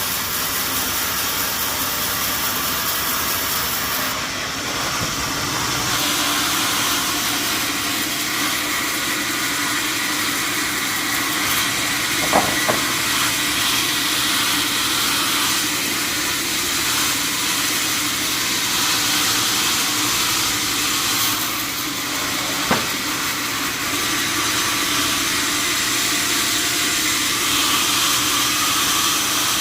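Steady hissing noise, with a short double click a little before halfway and another click about three-quarters of the way through.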